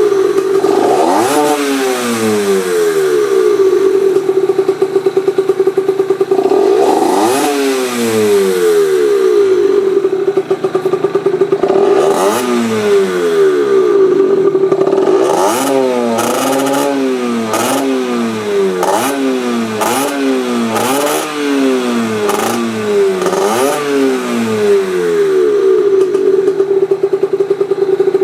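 Yamaha TZR50R's 50cc two-stroke single with an expansion-chamber exhaust idling and being revved by hand. There are a few single revs, then a quick run of throttle blips, then it settles back to a steady idle near the end.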